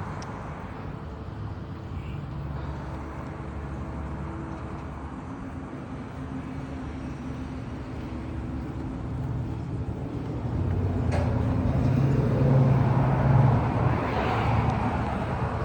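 A vehicle engine running with a low steady note, growing louder about ten seconds in and easing off near the end, as of a car driving past close by.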